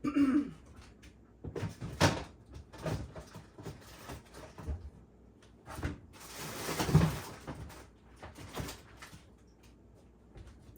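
Kitchen handling sounds: scattered knocks and clicks, the loudest about two seconds in, and a longer scraping rustle from about six to seven and a half seconds in.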